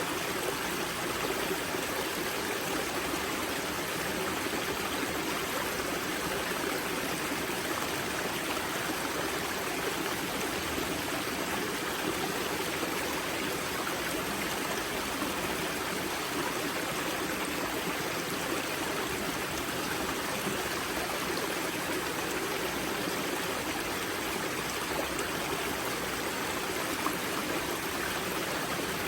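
Spring-fed mountain river water rushing and splashing at its source, a steady, unbroken rush with no pauses or changes.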